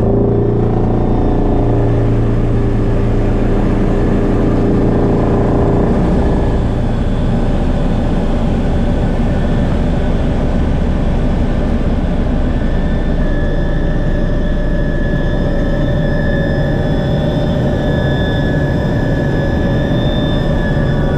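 Twin-engine Bo 105 helicopter in flight: a steady whine from its turbines over the rotor's drone, several steady tones held together. The deeper drone eases off about six seconds in, and higher whining tones stand out more later on.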